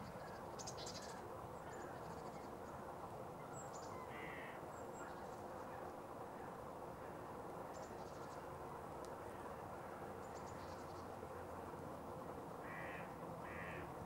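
Birds calling: three short, harsh calls, one about four seconds in and two close together near the end, with faint, thin, high chirps scattered in between, over a steady low background rumble.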